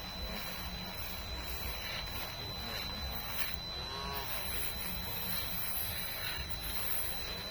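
Small handheld rotary power tool running at its lowest speed while cleaning fuse-box terminal corrosion: a steady buzz with a thin high whine, its pitch dipping and rising briefly about halfway through.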